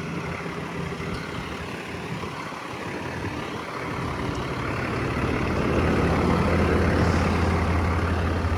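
Truck engine running at idle, a steady low hum that grows louder from about four seconds in.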